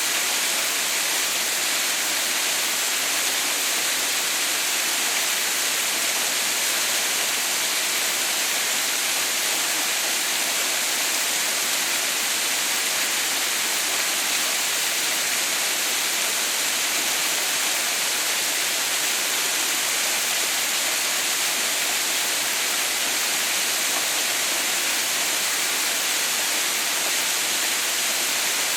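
Water pouring steadily down a partly frozen mountain waterfall: an even, rushing hiss, strongest in the high pitches, that does not change.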